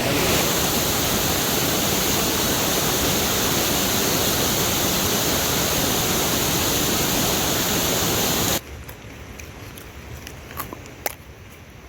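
Heavy rain falling, a steady dense hiss that cuts off abruptly about eight and a half seconds in, leaving a quiet background with a few faint clicks and taps.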